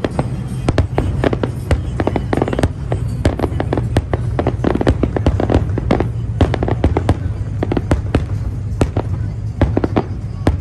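Fireworks going off in a dense, irregular volley of sharp bangs and crackles, several a second, over a steady low rumble.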